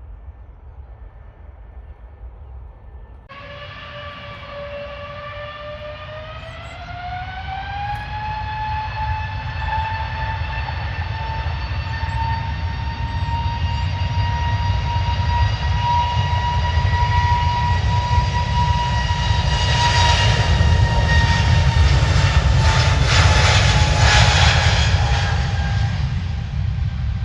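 Jet airliner's engines spooling up to takeoff power: a whine rises in pitch a few seconds in, then holds steady while a deep rumble grows louder, easing off slightly near the end.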